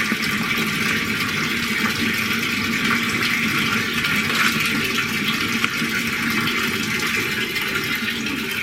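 Hot water running steadily from a bathtub tap into the filling tub, an even rush that doesn't change.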